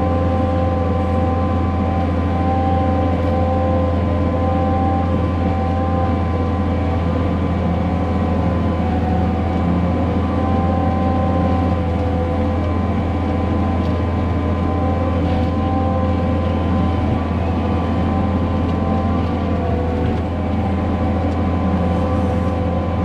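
Case 140 excavator's diesel engine running steadily under load, driving a hydraulic brush cutter through brush and vines, with a steady whine over the low engine drone.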